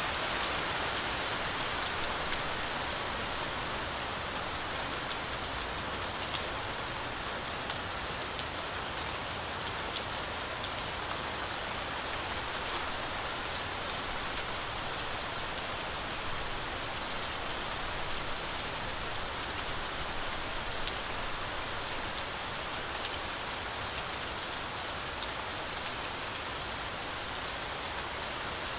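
Heavy rain falling steadily through a forest canopy, a dense even hiss with many fine drop impacts.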